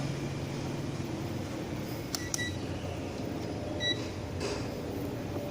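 Short high beeps from a multimeter's continuity tester as it probes the circuit board traces: two close together about two seconds in and one more near four seconds. A couple of light clicks come as the probes touch down, over a steady low hum.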